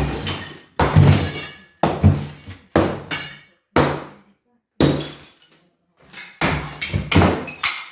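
Big hammer striking a brick fireplace about once a second, each blow followed by the clatter of broken brick falling, with a short pause past the middle.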